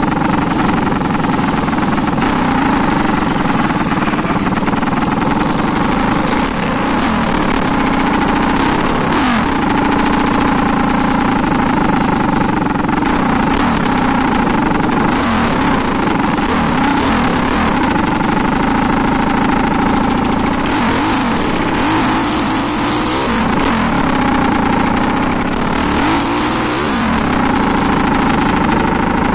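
A 400cc motorcycle engine running continuously, with small rises and falls in pitch as the throttle moves.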